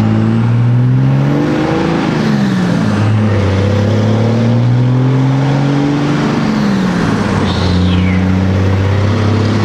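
1999 Dodge 2500's 24-valve Cummins diesel with a 5-inch turbo-back straight-pipe exhaust pulling hard under acceleration, heard from inside the cab. Its pitch climbs through two gears with a drop at each upshift, then it holds a steady cruise, with a short falling whistle about eight seconds in.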